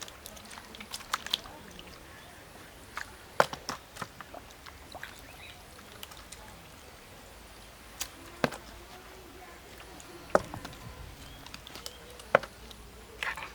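Scattered water splashes and sharp knocks of hands and gear working in shallow canal water, over a faint steady background.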